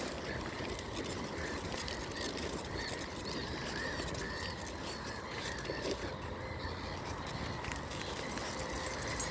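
Birds calling faintly in short chirps over a steady low outdoor rumble.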